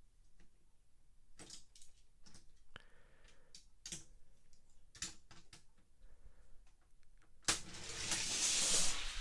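Light scattered clicks and taps of die-cast toy trucks being handled and set on a plastic track. About seven and a half seconds in, a sudden louder rushing noise starts and lasts over a second.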